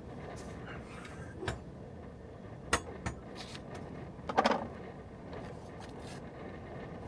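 Kitchen things being handled while making coffee: a few sharp clinks and knocks, with a louder clatter about four and a half seconds in, over a steady low background noise.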